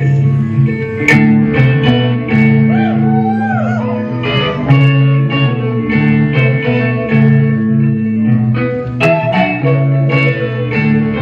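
Live band playing an instrumental passage between sung lines: a guitar lead with a few sliding notes over a bass line and a steady rhythm.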